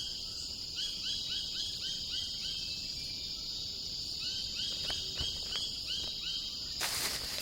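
Rainforest ambience: a steady high insect drone with a run of short, repeated chirps, about three a second. There is a brief noisy burst near the end.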